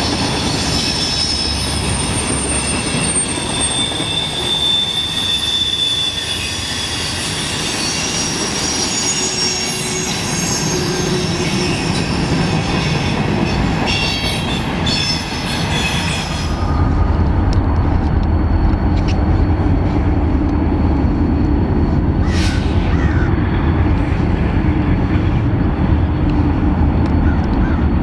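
Freight train of tank cars, boxcars and covered hoppers rolling past, its wheels squealing in several wavering high tones over the rumble of the cars. About two-thirds of the way in the squeal cuts off suddenly and a louder steady low rumble takes over.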